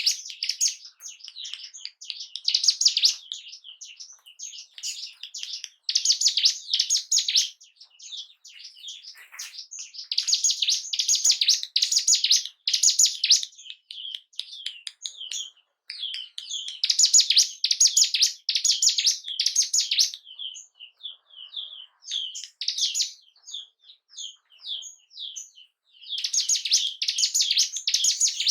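Ciblek gunung (a mountain prinia) singing: loud phrases of rapid high chirps, each lasting a second or two, repeated every few seconds with softer scattered chirps between. It is a lure recording meant to rouse breeding drive and aggression in a caged ciblek gunung.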